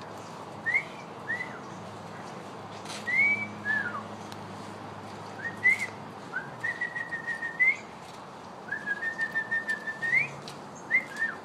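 A series of short whistles, some sliding up and some down, with two runs of quick repeated whistled notes held at one pitch, the second ending in a rising note.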